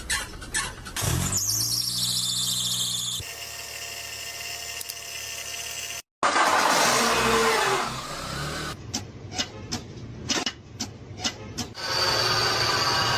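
A string of short car-trouble sound clips cut together: a pitched mechanical whine, a noisy stretch with a falling tone, then a run of sharp clicks about three a second, and finally a high steady whine.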